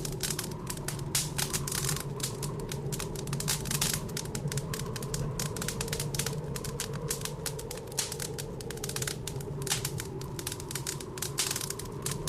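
Wood fire in a fireplace crackling, with dense, irregular sharp snaps and pops, over a steady low rumble of blizzard wind.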